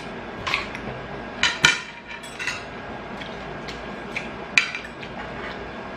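Eating sounds at a plate of crispy Korean fried chicken: about half a dozen short, sharp clicks and crunches scattered over the few seconds, with the loudest close to two seconds in and again near the end.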